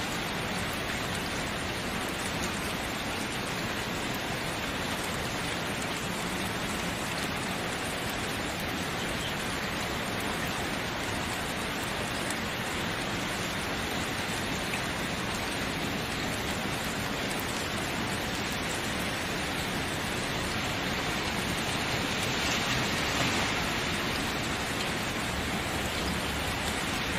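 Steady rain falling, an even hiss of many drops, swelling slightly near the end.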